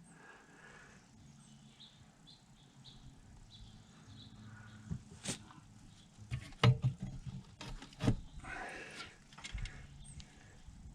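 A few sharp clicks and knocks of small metal parts being handled and fitted onto the engine, the loudest a little after six seconds, over a faint steady low hum.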